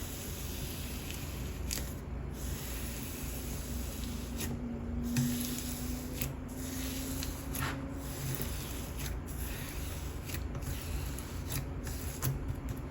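White glue slime packed with perlite being squeezed and kneaded by hand: a steady rubbing, squishing noise broken by a few brief pauses.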